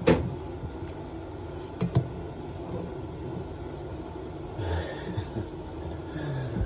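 Metal hand tools clicking: a sharp clink just after the start and another about two seconds in as wrenches or sockets are swapped and fitted onto a tight compression nut, with low room noise between.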